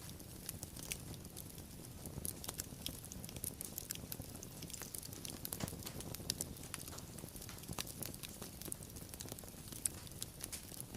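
Wood fire crackling: irregular sharp pops and snaps scattered over a low steady rumble of burning.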